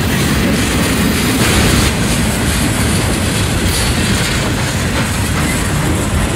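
Loud, steady rumble and rattle of a passing CSX train's wheels on the rails, with occasional faint clicks.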